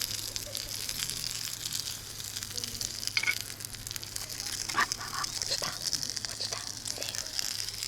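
Food sizzling in a frying pan: a steady frying hiss with fine spattering crackles, with a few light clinks a few seconds in.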